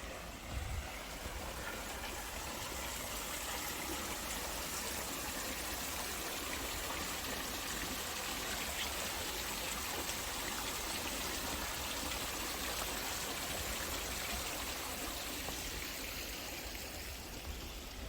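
Running water rushing steadily. It swells over the first couple of seconds and fades near the end.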